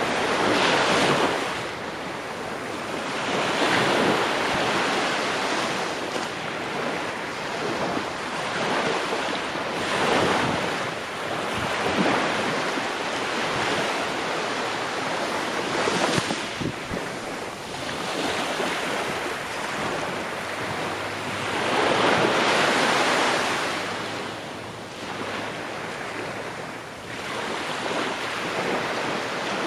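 Ocean waves breaking and washing on the shore, surging and receding every few seconds in a continuous wash of surf.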